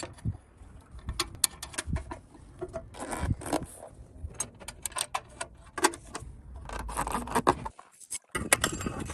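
Irregular metallic clinks, taps and scrapes of small metal parts and hand tools being handled during motorcycle restoration work, with a short break near the end.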